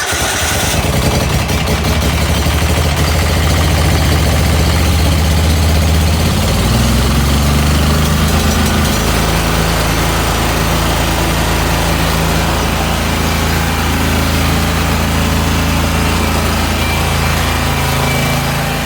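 Gravely 260Z zero-turn mower's Kohler engine starting at once and running steadily, with its speed rising a little about six to nine seconds in. It is being run to circulate freshly changed oil.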